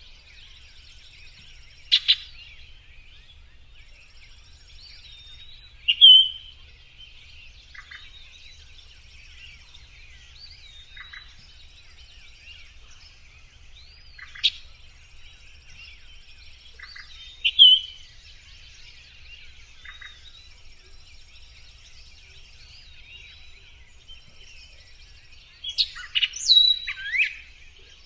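Many small birds chirping in a steady high chorus. Louder single chirps come every few seconds, with a quick flurry of calls near the end.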